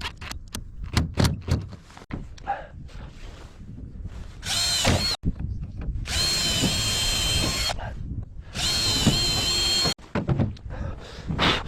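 Power drill working wood, its motor whining in three runs: a short one, then two longer ones with a short pause between. A few light knocks come before the first run.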